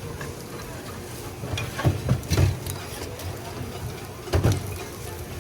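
Steady background din of a busy street food market, with a few dull knocks about two seconds in and another about four and a half seconds in.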